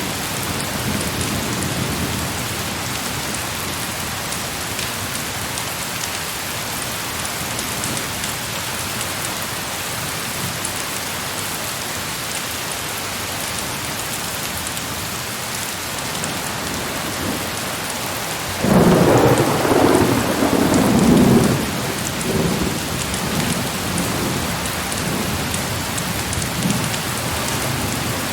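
Heavy rain pouring steadily. About two-thirds of the way in, a loud thunderclap breaks out and rumbles away over several seconds.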